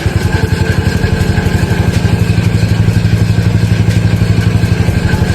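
Honda Ruckus scooter's 49cc four-stroke single-cylinder engine running at a fast steady idle, then dying away just at the end. The engine won't stay running after sitting for months, and the owner suspects clogged carburetor jets.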